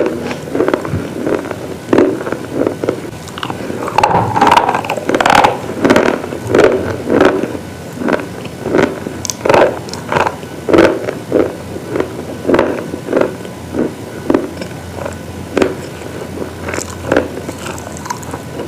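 Brittle slate pieces crunching repeatedly as they are bitten and chewed, about one to two sharp crunches a second, steady throughout.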